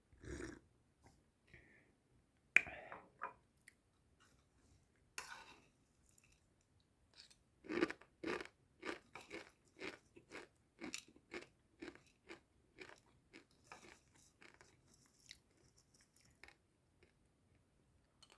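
A person chewing crunchy food close to the microphone, in an even run of chews about two a second from about seven seconds in. A sharp click and a few scattered rustles come before the chewing starts.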